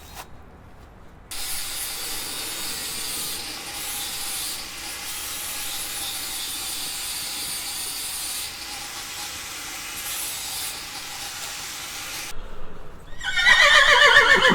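A steady hissing noise that starts about a second in and stops after roughly eleven seconds, then a horse neighs loudly near the end.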